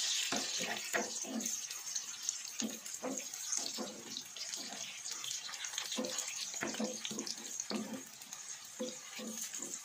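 Soaked dried mushrooms frying in hot rendered chicken fat in a pan: steady sizzling with frequent crackles and pops.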